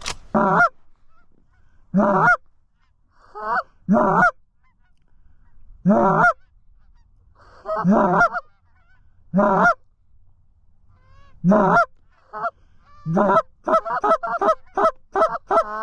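Goose honks, single calls spaced a second or two apart, breaking into a fast run of short clucks, about three a second, near the end.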